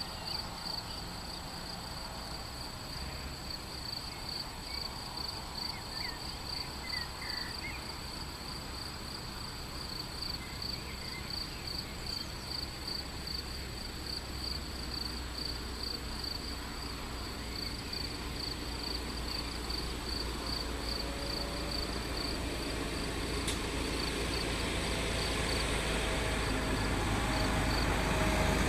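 Insects chirping in a steady, even rhythm, with a few faint bird calls early on; a low rumble builds steadily louder over the last third, like a vehicle approaching.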